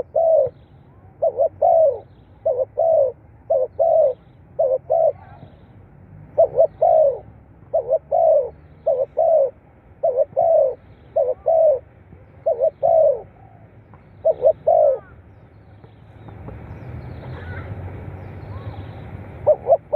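Spotted dove cooing: short low coos, mostly in close pairs, repeated steadily for about fifteen seconds. The calls then stop for a few seconds while a steady rushing noise rises, and cooing resumes at the very end.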